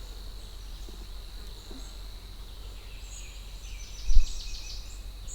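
Outdoor nature ambience: a steady high insect-like whine under a short, rapid bird trill about three to four seconds in. A brief low thump, the loudest sound, comes just after four seconds.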